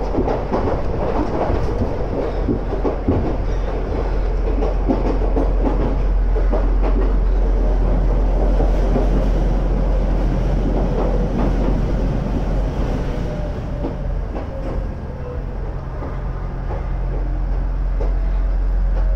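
Running noise of a converted ex-Tokyu electric railcar heard from inside the car: a steady rumble with wheels clattering over the track. Past the middle a steady low tone comes in and the sound grows louder near the end.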